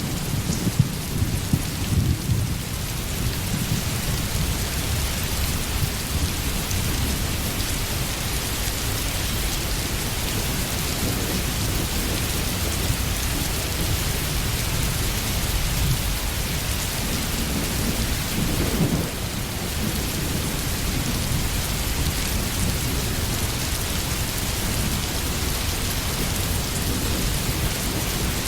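Steady rain falling, with low rolling thunder rumbling underneath that swells briefly near two-thirds of the way through.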